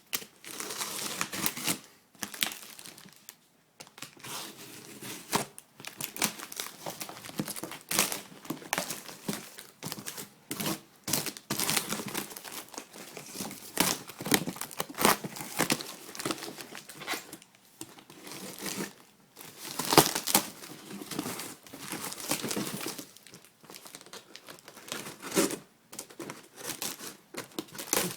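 A shipping package being opened by hand: tearing and crumpling of packing material in irregular bursts with short pauses.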